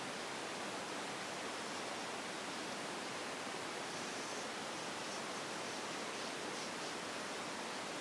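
Steady, even hiss of the recording's background noise, with a few faint, brief scratchy sounds about halfway through.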